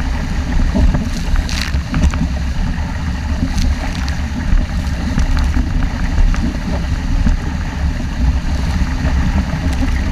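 Strong wind buffeting the microphone in a heavy, steady rumble, over water rushing past the hull of a 470 dinghy sailing fast in 5–6 Beaufort.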